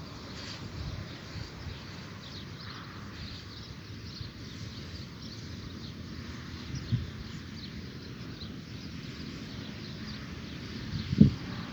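Birds chirping at dawn, many short high calls over a low outdoor rumble, broken by two dull thumps, the louder one near the end.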